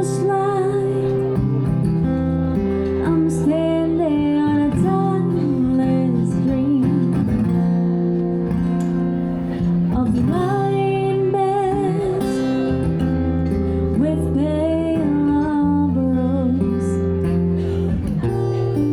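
Acoustic guitar playing steady chords, with a voice singing a melody over it.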